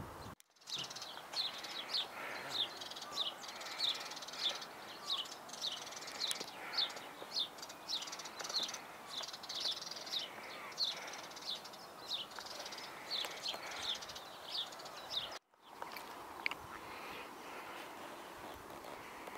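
A small bird singing or calling over and over in short high chirps, about two a second, over a steady outdoor hiss. After about fifteen seconds the chirping breaks off at a cut, leaving the hiss and an odd chirp.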